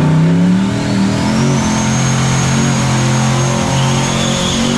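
Full-size pickup truck engine revved hard and held at high revs. A thin high whine rises over the first second or two and then holds steady.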